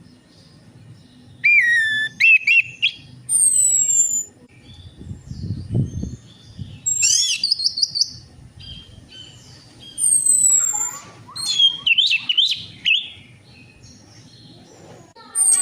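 Orange-headed thrush song: bursts of varied, quick warbled phrases mixed with clear high whistles that slide downward, separated by short pauses.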